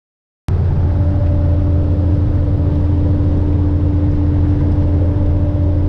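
Dump truck's N14 Cummins diesel engine running steadily under way, a loud, even drone that cuts in suddenly about half a second in.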